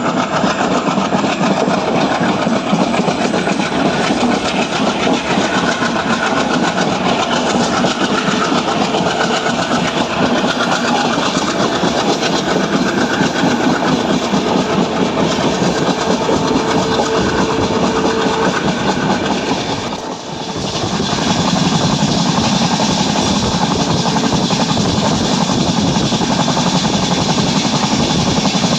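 Alco diesel locomotive running hard, its engine chugging over the clatter of wheels on the rails. The sound dips briefly about twenty seconds in, then returns.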